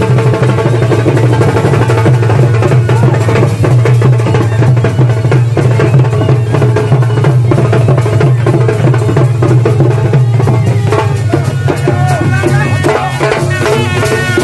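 Loud drum-led traditional folk music, with many drum strokes and a melody running over them that stands out more clearly near the end.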